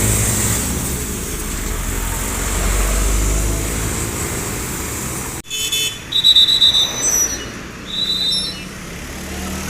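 Diesel truck engine labouring steadily under load, a low rumble with haze above it, which cuts off abruptly a little past halfway. After the cut come several short, high-pitched toots.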